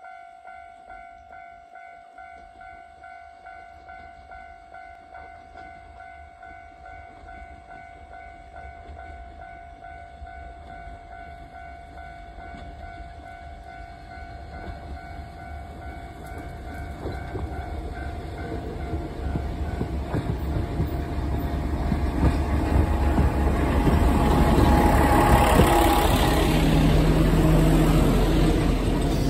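Level crossing warning bell ringing in a steady repeated pattern, a little under two strikes a second. From about halfway a KiHa 47 diesel railcar's engine and wheels on the rails grow steadily louder, loudest near the end as it pulls into the station.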